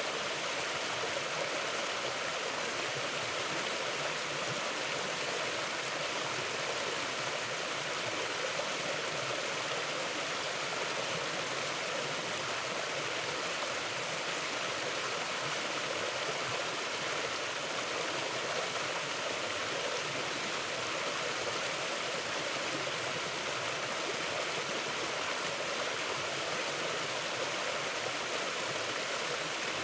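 Mountain stream flowing steadily, an even, unbroken wash of running water.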